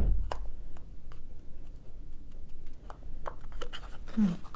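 Scattered light clicks and taps of small objects being handled, with a louder knock at the start and a short voice sound near the end.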